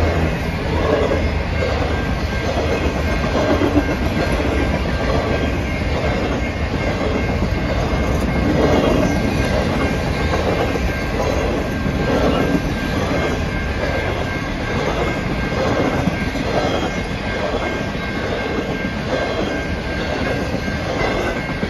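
Norfolk Southern Triple Crown RoadRailer train (highway trailers riding on rail bogies) rolling steadily through a grade crossing. Its wheels clack over the rail joints in a rhythm that repeats every second or two, and the crossing bell rings.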